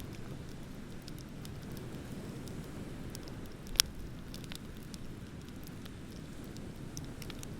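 Wood bonfire crackling: scattered small snaps and one sharp, much louder pop nearly four seconds in, over a steady low rumble.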